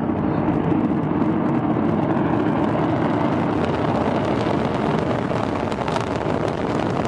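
Rocket engine firing in a launch test: a steady, dense rumble with a crackle running through it.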